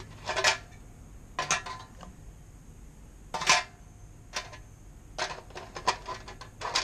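A series of sharp metallic clinks and knocks from metal parts of a mini bike being handled, irregularly spaced, with a quick cluster of clicks near the end.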